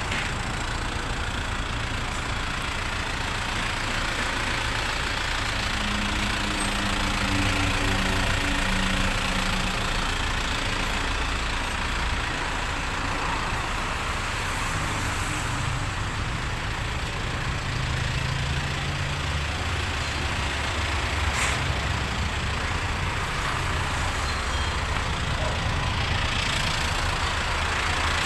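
A UD YU41T5 light truck's diesel engine idling steadily, with one short click about three-quarters of the way through.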